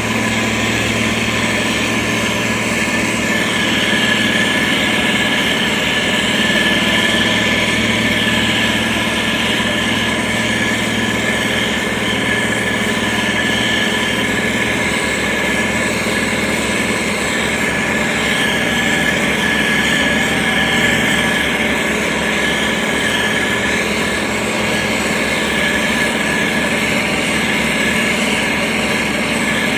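SANY STG190C-8S motor grader's diesel engine running steadily: a low drone with a steady high whine above it.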